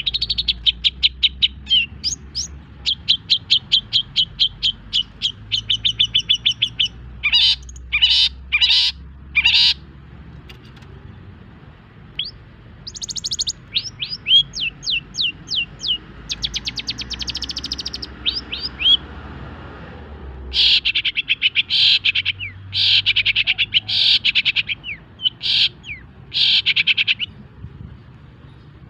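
Long-tailed shrike (cendet) singing: fast trains of high, repeated chirping notes, several a second. These are broken by harsher rasping bursts, about a third of the way in and again in the last third.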